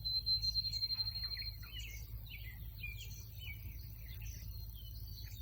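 Birds chirping and singing in short, quick calls, with a thin steady high tone for the first second and a half, over a low background rumble.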